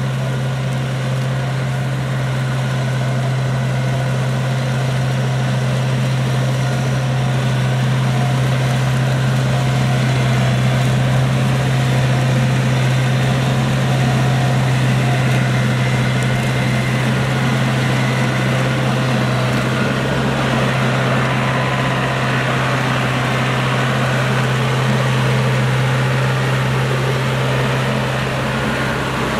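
Yanmar YH700 rice combine harvester running steadily: a strong, unchanging low engine hum with a busy mechanical noise over it.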